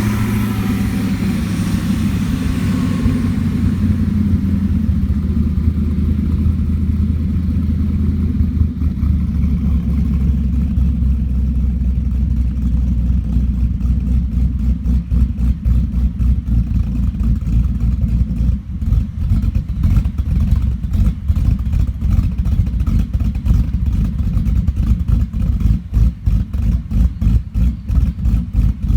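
Built, supercharged 5.4-litre V8 of a 2001 Ford SVT Lightning with aggressive Comp cams, settling from a higher speed in the first few seconds to a lumpy, choppy idle. The uneven loping pulse grows more pronounced toward the end, which is the cams chopping on the break-in tune.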